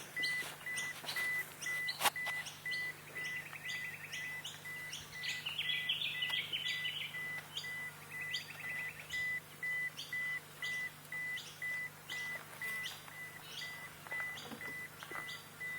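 Wild birds calling: a steady run of short, high, falling chirps about three a second, with a rapid trill twice and a warbling phrase about six seconds in. An even, pulsing high tone runs underneath.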